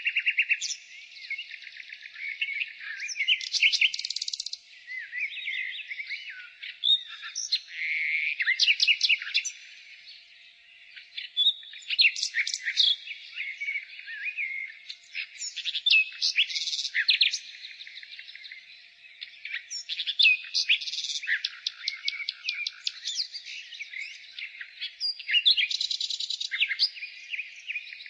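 Common nightingale singing: a run of varied phrases, many built of fast repeated notes, with short pauses between them.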